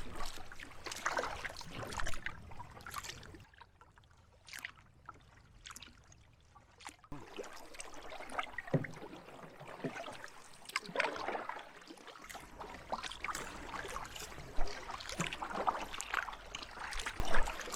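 Canoe paddles dipping and pulling through lake water, with splashes and drips at uneven strokes. It goes quieter for a few seconds early on, then the strokes pick up again.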